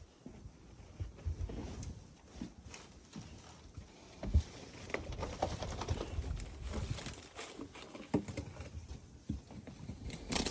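Wind buffeting the microphone in a blizzard: uneven low rumbles that come and go, with scattered soft knocks.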